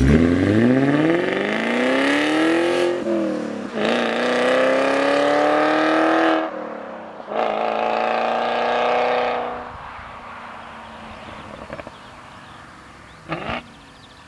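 BMW E39 540i's 4.4-litre V8 with a flap exhaust, accelerating hard through three gears: the engine note climbs, dips at two upshifts and climbs again, then falls away about ten seconds in. A short burst of sound comes near the end.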